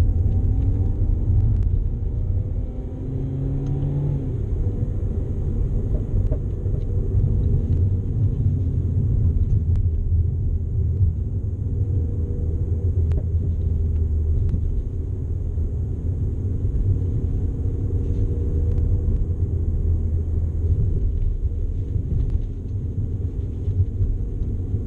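In-cabin engine and road noise of a Renault Clio RS EDC driven hard on a race track: a steady low drone from the engine under load and the tyres on the tarmac. The engine note climbs in the first few seconds and eases briefly about three seconds in.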